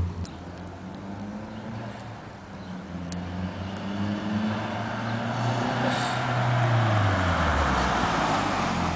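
Mazdaspeed 3's turbocharged 2.3-litre four-cylinder running through a Vibrant downpipe-back exhaust as the car drives up. The engine note climbs for several seconds, then drops about three-quarters of the way through, while a rushing road noise grows louder as the car nears.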